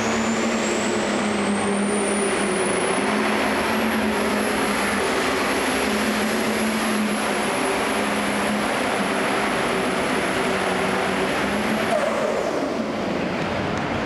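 Turbocharged super stock pulling tractor running flat out down the track. A high turbo whistle climbs over the first few seconds and then holds steady above the loud engine. About twelve seconds in the throttle is cut, and the whistle and engine pitch both drop as it winds down at the end of the pull.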